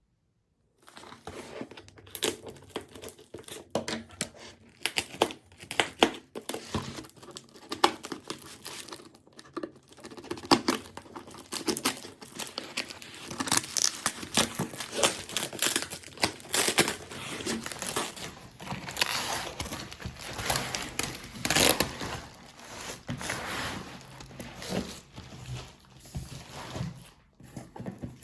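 Packaging being handled: rapid crinkling and rustling, with some tearing, starting about a second in.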